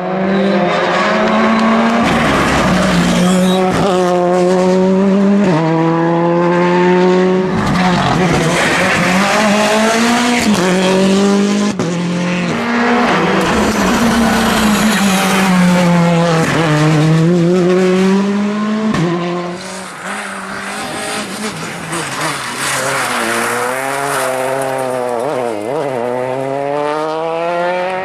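Rally cars driven flat out on a stage, engines revving up hard through the gears with a sharp drop in pitch at each shift, over and over as the cars accelerate and brake.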